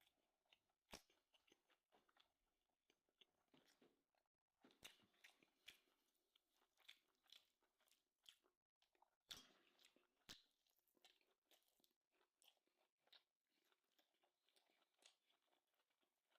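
Faint eating sounds: chewing with many small irregular crunching clicks, a few louder ones about a second in and near the middle.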